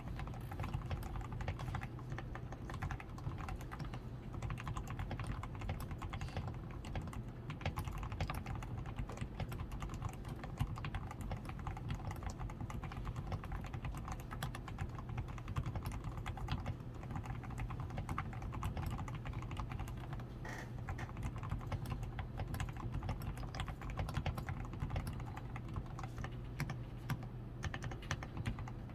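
Steady, continuous typing on a DAREU A87 Pro mechanical keyboard, its switches and stabilizers lubricated with Krytox 105, its PCB tape-modded, and fitted with XDA keycaps: a rapid, unbroken stream of keystroke clacks over a low steady hum.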